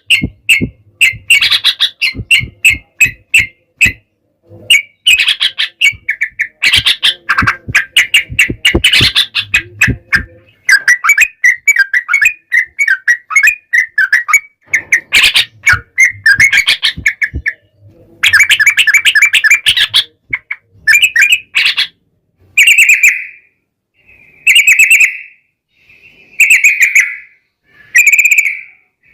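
Yellow-vented bulbuls (trucukan) singing loudly in fast chattering runs of repeated notes, broken by short pauses, in the rolling 'ropel' style of a dueling song. Near the end the song breaks into short separate phrases about a second apart.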